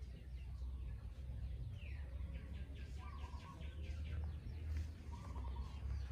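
Birds chirping and calling, with a quick series of short chirps and a falling whistle about two seconds in, over a steady low rumble.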